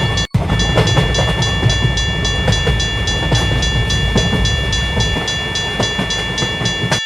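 Train passing a level crossing: a low rumble and the clatter of wheels on track, with the crossing's warning bell ringing rapidly over it at about three to four strikes a second.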